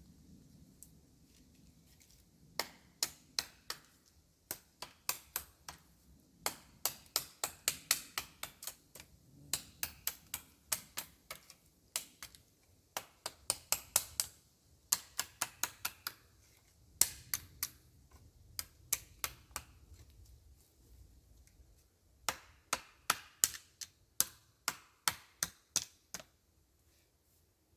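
Dry wood being cut and broken: sharp, dry clicks and cracks in irregular runs of several a second, with short pauses between runs.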